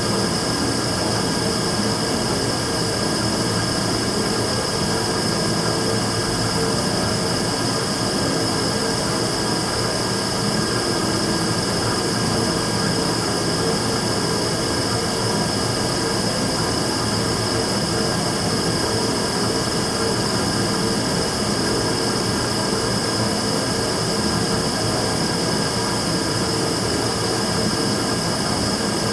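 Immersion tube burner running steadily: an even roar with a steady high whine on top, the noise that is logged as abnormal (異音).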